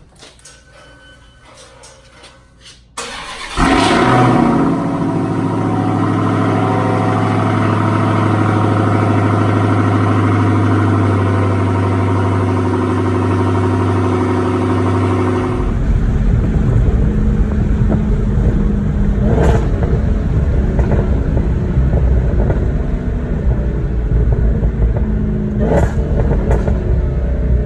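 2018 Dodge Charger Hellcat's supercharged 6.2-litre Hemi V8 cold-starting through a Corsa Xtreme exhaust: about three and a half seconds in it fires with a loud flare, then settles into a steady fast cold idle. About fifteen seconds in the sound turns to a lower, rougher rumble with a few short sharp cracks.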